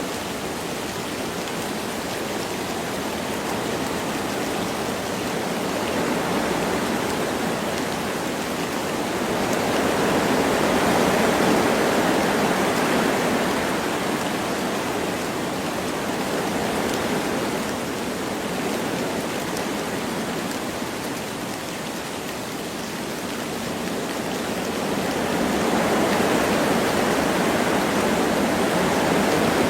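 Wind blowing through forest trees with light rain, a steady rushing that swells in two slow gusts, about ten seconds in and again near the end.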